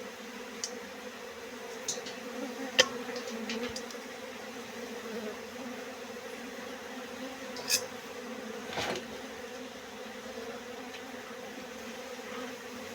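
Honeybees buzzing in a steady, even hum. A few sharp clicks cut through it, the loudest about three seconds in and another near eight seconds, followed by a brief rustle.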